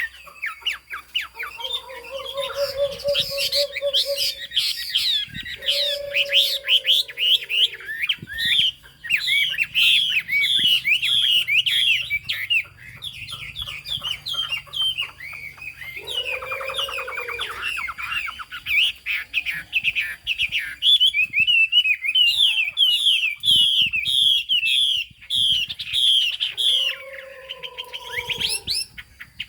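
Chinese hwamei singing a long, loud run of fast, high warbled and sweeping notes without pause. Lower, longer notes break in four times.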